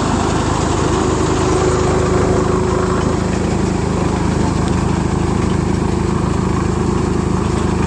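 Tractor-driven threshing machine running steadily: a continuous engine and machinery drone with a steady hum.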